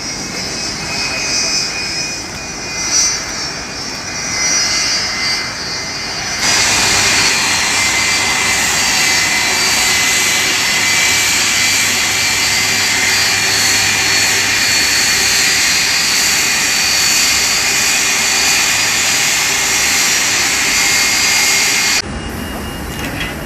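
Jet engines of a Boeing 757-200 whining with steady high tones. About six seconds in the sound jumps to much louder, steady jet-engine noise with the whine still over it, then drops abruptly near the end.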